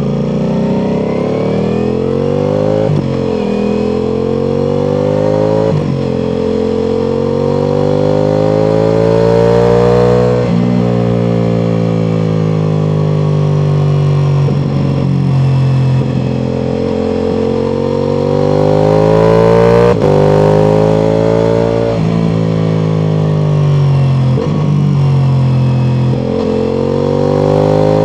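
Ducati Multistrada V4 Pikes Peak's V4 engine through an Akrapovic exhaust, under way and pulling up through the gears. The engine pitch climbs, then drops sharply at each quick gear change, about every three seconds at times, with spells of steadier or easing revs in between.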